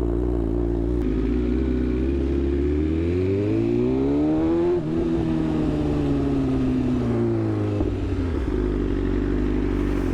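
A BMW S1000RR sportbike engine heard from the rider's seat, steady at first, then rising in pitch as it accelerates about three seconds in and easing back down over the next couple of seconds. Wind rushes past throughout.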